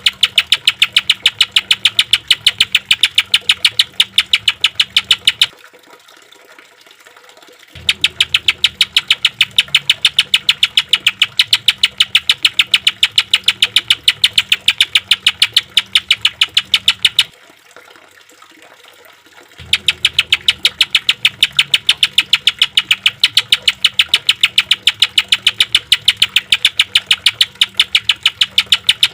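Green leafbird (cucak ijo) giving 'tembakan' rapid-fire song: long runs of fast, evenly repeated sharp notes, broken twice by pauses of about two seconds.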